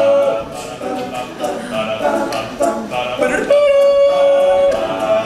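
All-male a cappella group singing without lyrics between verses, the voices carrying the song's instrumental part, with a long note held about three and a half seconds in.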